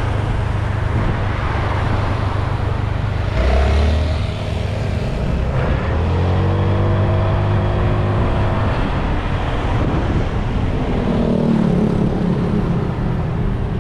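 Motorbike engine running while riding, with wind rushing over the microphone; the engine note shifts in pitch a few times along the way.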